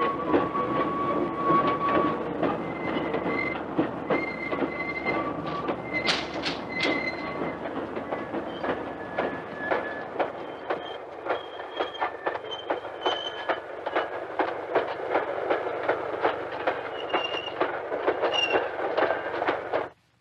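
Electric industrial railway train running on the rails, with rapid clattering over the rail joints and thin, high wheel squeals that come and go; the sound cuts off abruptly near the end.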